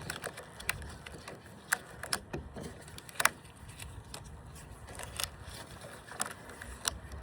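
Rubber bands being stretched and snapped onto a watermelon, a series of sharp irregular snaps about a second apart, the loudest about three seconds in.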